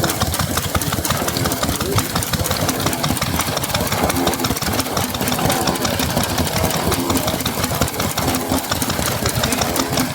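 Vintage stationary engine running with a rapid, even knocking beat, over faint background voices.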